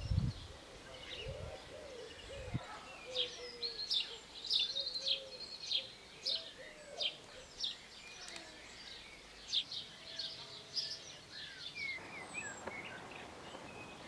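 Small birds singing, a quick run of short, high chirps repeated again and again, with softer, lower calls beneath.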